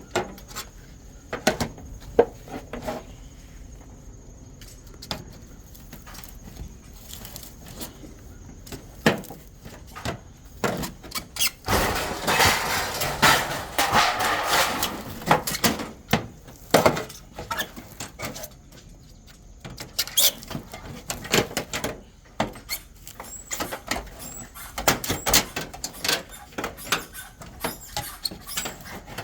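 Aluminum siding corner being worked and pried loose by hand: scattered clicks, knocks and squeaks of thin metal, with a few seconds of continuous scraping around the middle.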